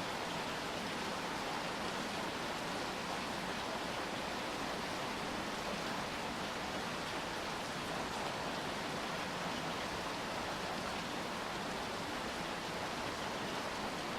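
Steady rainfall: an even hiss with no single drops or other sounds standing out.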